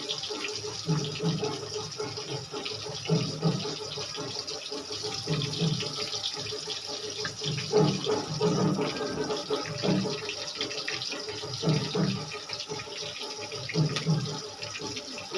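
Chopped onions sizzling and frying in hot oil in a kadhai, a steady hiss, with low bumps recurring every second or two.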